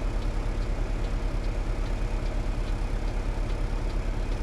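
Heavy diesel truck engine running steadily with a low, even throb, with a faint light tick repeating about two to three times a second over it.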